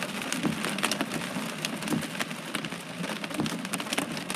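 Heavy rain pouring down, a dense hiss with many sharp individual drop impacts close to the microphone.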